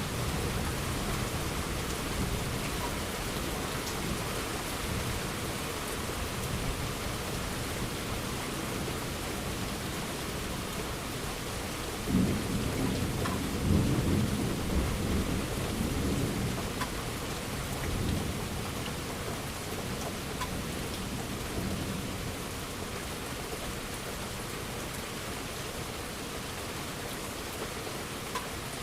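Steady heavy rain falling, with a roll of thunder that breaks suddenly about twelve seconds in, rumbles for several seconds and fades away.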